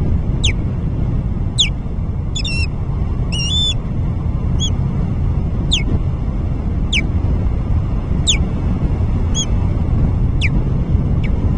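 Osprey calling: a series of sharp, downward-slurred whistles, about one a second, a few of them broken into quick wavering notes, over a steady low rumble.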